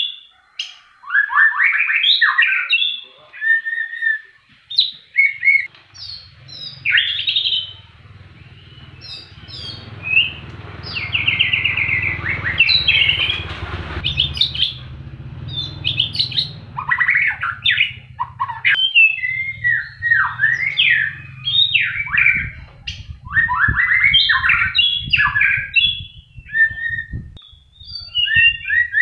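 White-rumped shama singing a varied song of quick whistled phrases, rapid trills and sweeping notes. A low hum runs underneath through the middle of the song.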